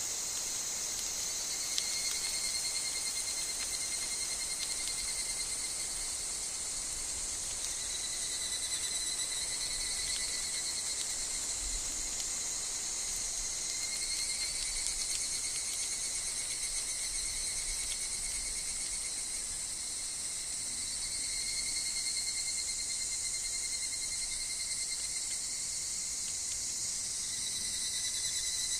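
Steady chorus of higurashi evening cicadas and other insects: a dense, high trill with fainter lower tones that swell and fade by turns.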